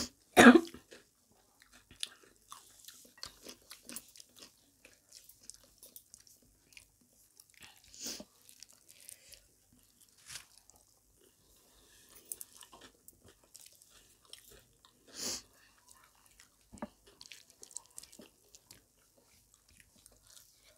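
Close-miked chewing and lip smacking of people eating rice and curry with their hands: soft, scattered wet mouth clicks, with a few louder smacks, the loudest about half a second in.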